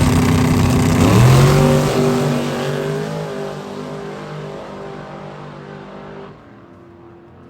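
Drag race car accelerating hard down the strip, shifting gear about a second in, its engine note then climbing and fading as it pulls away.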